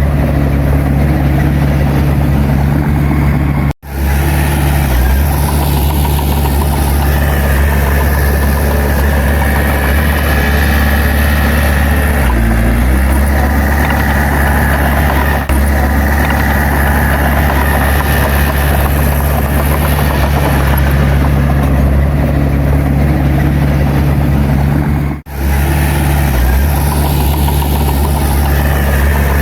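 Bulldozer's diesel engine running steadily with a deep drone, its pitch shifting briefly about twelve seconds in as the load changes. The sound cuts out for an instant twice, about four seconds in and near the end.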